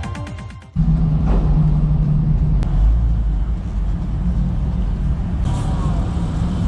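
Electronic music cuts off under a second in, then a car engine runs with a loud, steady, deep exhaust rumble.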